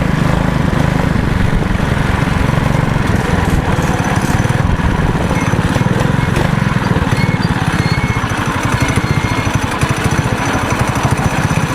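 Small off-road vehicle engine running steadily, with a fast, even firing beat.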